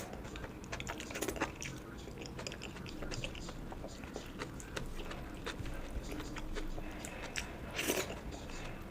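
A person chewing and biting food close to the microphone: wet mouth clicks and crunchy bites, with a louder bite about eight seconds in.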